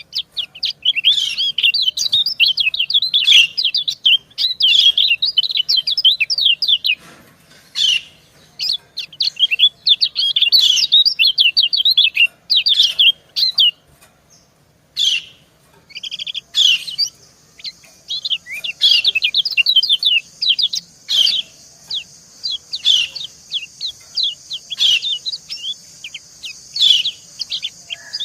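Female white-eye (kecial kuning) giving rapid 'ciak' chirps in long runs of quick, high notes, with brief pauses between runs. About halfway through, a steady high hiss joins underneath and continues.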